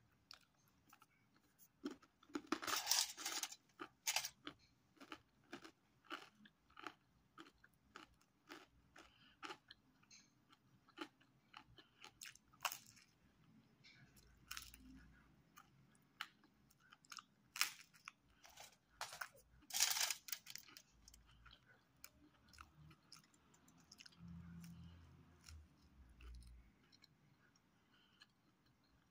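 A person biting and chewing crisp pizza crust: a long run of sharp crunches with quieter chewing between them, loudest around three seconds in and again around twenty seconds in.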